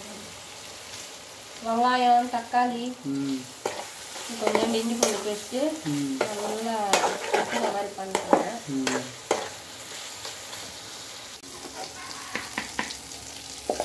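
Chicken frying and sizzling in an aluminium pan while a metal spoon stirs it, clinking and scraping against the pan. A voice talks in short phrases over it through the first part.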